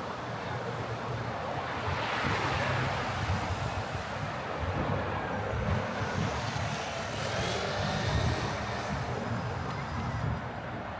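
City street traffic: a steady wash of vehicle engine and tyre noise that swells about two seconds in as a vehicle passes.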